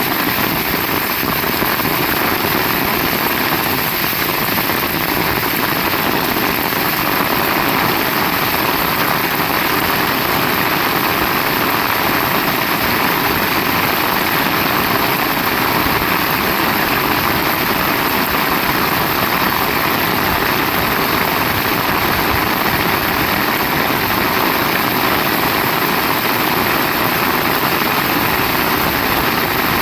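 Heavy rain falling, a dense, steady hiss that holds level throughout.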